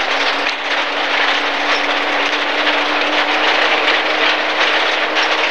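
A Rally First MG ZR 1.4's engine running hard at steady revs, heard from inside the car, with the hiss and rattle of tyres and stones on a wet gravel stage.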